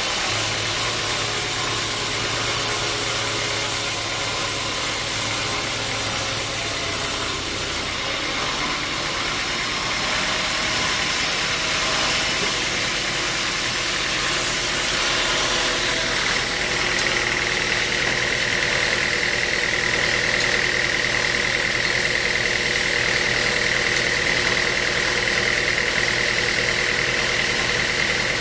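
Sawmill machinery running steadily with a mechanical engine-like drone; a little past halfway a steady high whine joins it.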